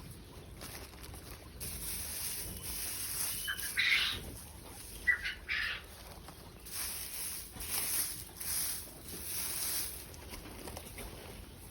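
Two short bird calls about four and five and a half seconds in, over a high rustling hiss that comes and goes.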